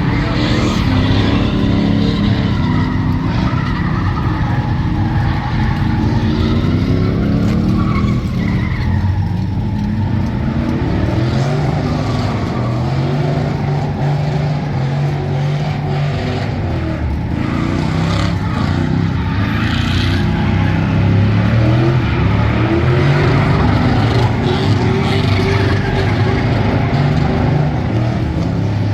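A truck engine held at high revs, its pitch rising and falling, with tyres spinning and squealing in a burnout.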